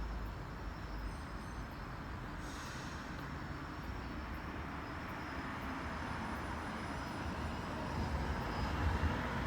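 Electric commuter train approaching on the Meitetsu Toyota Line: a steady rushing rumble that grows louder toward the end.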